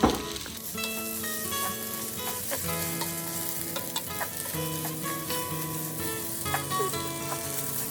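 Rice with ginger paste and turmeric sizzling in oil in a frying pan while being stirred, with short scrapes and clicks of the spoon against the pan. There is a sharp knock right at the start.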